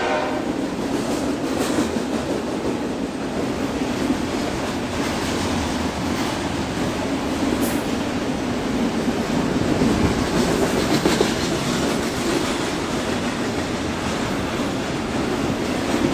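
A train passing close by, a steady rumble of wheels and cars on the rails with occasional clicks. A horn blast dies away in the first moment.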